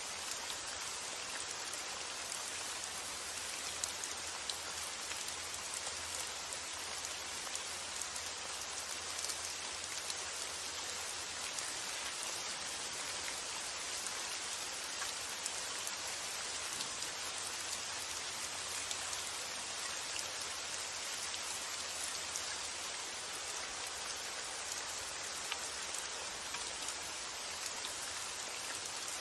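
Steady rain falling, with faint drop ticks through the hiss and a low rumble of wind beneath.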